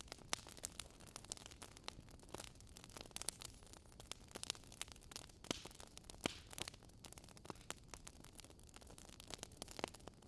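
Bonfire of burning wood crackling: irregular sharp pops and snaps, several a second, over a soft steady hiss.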